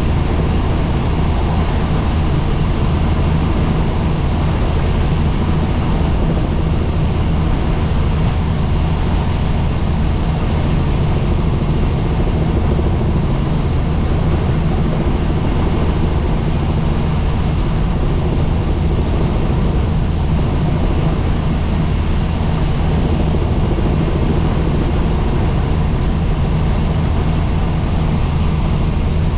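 Helicopter in steady flight: a constant low drone of engine and rotor with no change in pitch or level.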